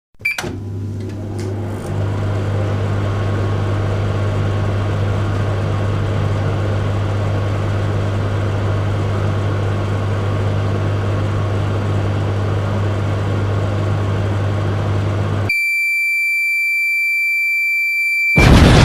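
Microwave oven running with a steady low hum for about fifteen seconds, then one long electronic beep lasting about three seconds. A loud explosion starts just before the end.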